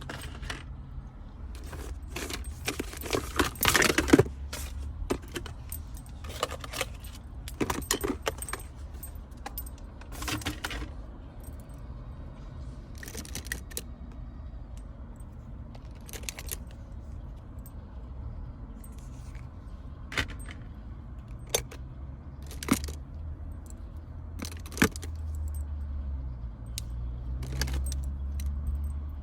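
Small hard objects clicking, clinking and rattling as belongings are handled and sorted, in irregular bursts that are busiest in the first half, over a steady low hum.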